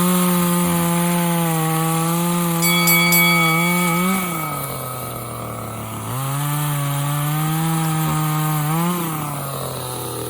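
Parkside PBBPS 700 A2 two-stroke top-handle pruning chainsaw running at high revs, cutting wood. About four seconds in it drops toward idle. It revs up again about two seconds later, then eases off once more near the end.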